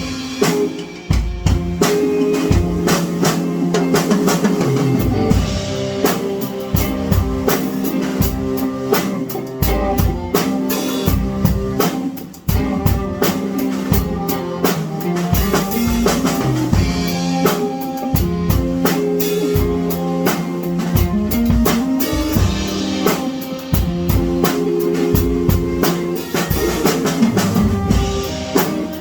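Music played on a drum kit, with frequent snare and bass drum hits in a busy beat over sustained instrument notes.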